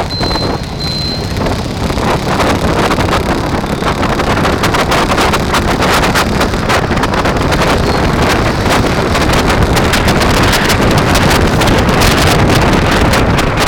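Wind buffeting the microphone of a camera riding along on a bike: a loud, steady rush with constant crackling. A high beep repeats a few times in the first second or so.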